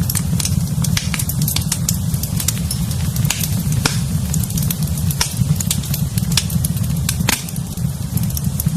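Wood fire in a fireplace crackling and popping, with irregular sharp snaps several times a second over a steady low rumble of the burning fire.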